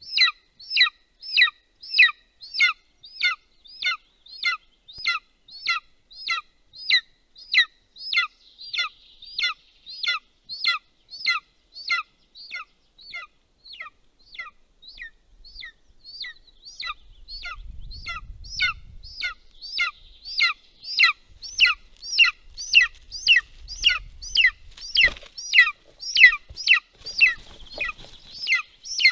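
Golden eagle chick giving its food-begging call: a steady series of high, down-slurred notes, about two a second, repeated without a break. A low rumble comes and goes in the middle, with a single knock.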